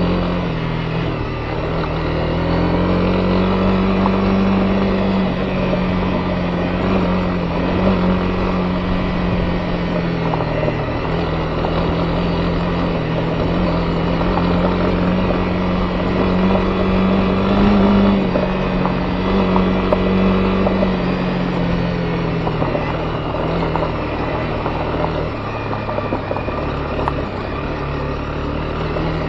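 Honda CB250R's single-cylinder four-stroke engine running steadily under way, its pitch rising and easing a little with the throttle, over a steady rush of riding noise.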